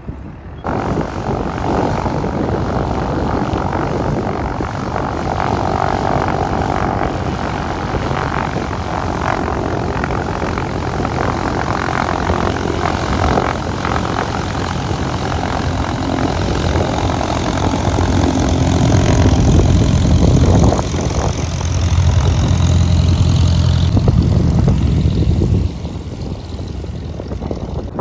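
Propeller airplane engine running loud and close, its low drone building up through the second half and dropping off sharply near the end.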